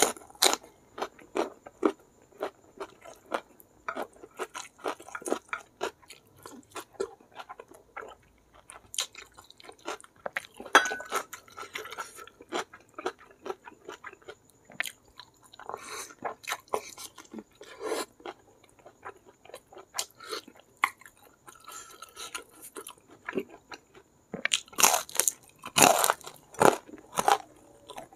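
Close-miked mouth sounds of a person chewing mutton curry on the bone and rice: wet chewing with many small clicks and crunches. Near the end comes a run of louder crunches as a piece of fried tempeh is bitten and chewed.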